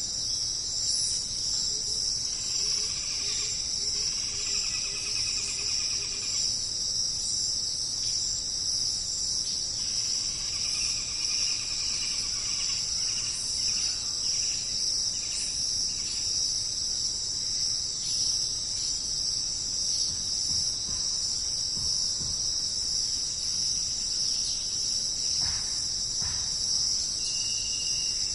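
Dense, steady high-pitched chorus of insects in rainforest, with occasional trilling calls of birds or frogs rising and fading over it and a short whistled note near the end.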